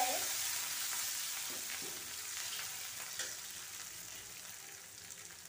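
Garlic, curry leaves and coriander sizzling in hot oil in an iron kadhai as a steel ladle stirs them, with a few light ladle scrapes against the pan. The sizzle fades gradually.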